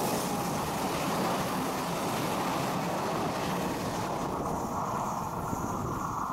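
Passenger coaches rolling past on the rails and fading away, the higher rolling noise dying out over the last couple of seconds, with wind on the microphone.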